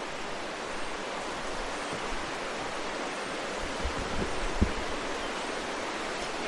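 Waterfall rushing with a steady, even roar, and a couple of brief low thumps a little after four seconds.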